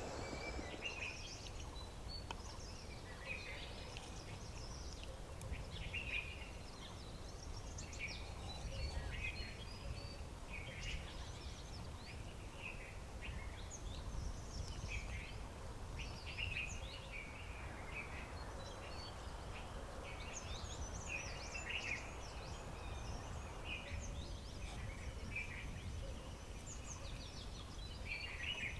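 Several small birds chirping and calling in quick, overlapping short notes, over a steady low rumble of outdoor background noise.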